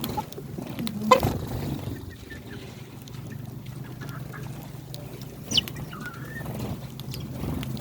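Backyard hens and chicks calling low while feeding, with sparrows chirping briefly a few times, over a steady low hum. A single sharp tap about a second in is the loudest sound.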